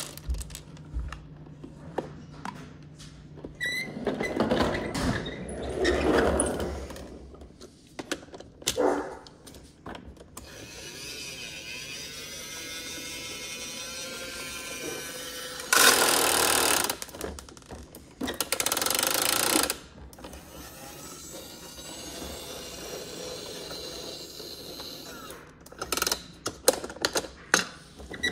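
Plastic clicking and ratcheting of a toy garbage truck's geared mechanism being worked, with a small motor whining for a few seconds past the middle, then two loud bursts of noise and a run of sharp clicks near the end.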